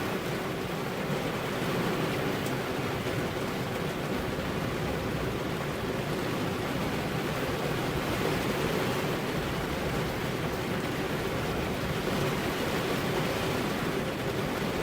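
Steady heavy rain: an even, unbroken hiss of falling rain with no thunder.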